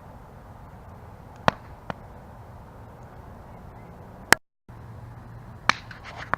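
Campfire burning with a steady low rustle and sharp crackles and pops of burning wood, a few single pops and then a quick cluster of them near the end. The sound cuts out completely for a moment just after the loudest pop, about four seconds in.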